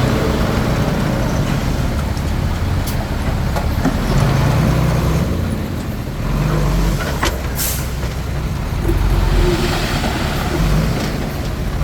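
Komatsu D21P bulldozer's diesel engine running under working load, its note swelling and easing, with a few brief sharp noises over it.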